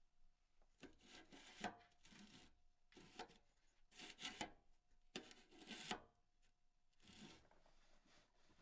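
Faint scraping strokes, about five, each a second or less with short pauses between them.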